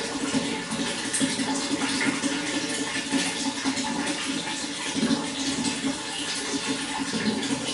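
Running water flowing and splashing steadily, a continuous rushing with a low gurgling undertone.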